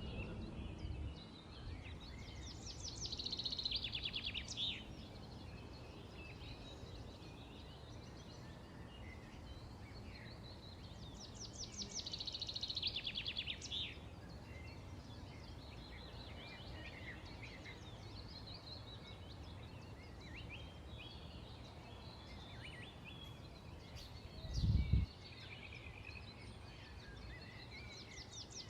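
Several songbirds chirping and singing, with a fast trilling phrase coming back about every ten seconds, over a steady low background rumble. A brief low thump about 25 seconds in is the loudest moment.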